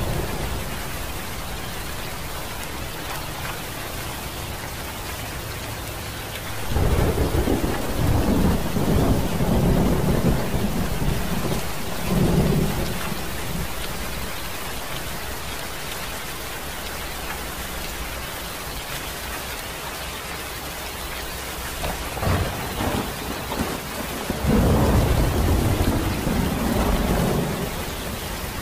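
Steady rain falling, with two long rolls of thunder: a deep rumble about a quarter of the way in that lasts some six seconds, and another near the end.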